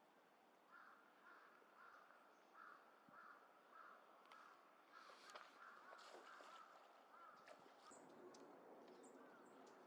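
Faint bird calls: one call repeated about twice a second, then thin high chirps near the end.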